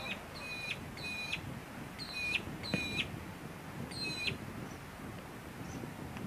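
A bird calling over and over: a short call that holds high, then drops sharply in pitch, about six times in the first four and a half seconds. A steady outdoor haze sits under it.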